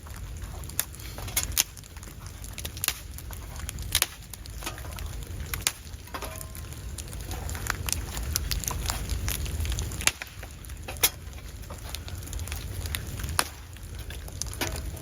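Irregular sharp snaps and crackles, a few a second, over a steady low rumble.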